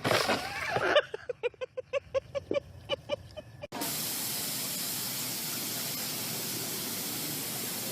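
A quick run of short pitched calls, about four a second, then after a sudden cut a steady, loud hiss like spraying water or air.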